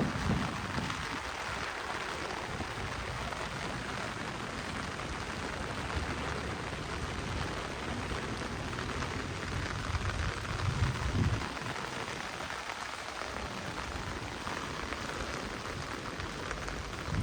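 Heavy rain falling steadily on a city street, a dense, even hiss. A brief low rumble rises and fades a little over ten seconds in.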